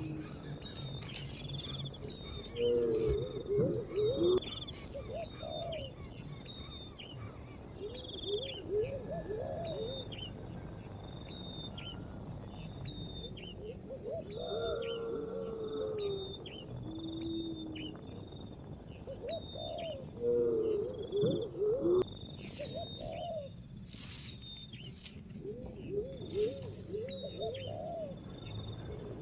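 Birds and insects calling: a short high note repeating about once a second, and a lower phrase of several notes returning every five to six seconds.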